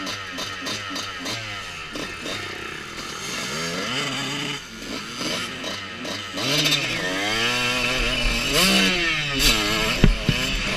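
Motocross bike engine revving up and down as it is ridden, its pitch rising and falling repeatedly with the throttle and gear changes. It gets louder about two thirds of the way in, with a couple of sharp thumps near the end.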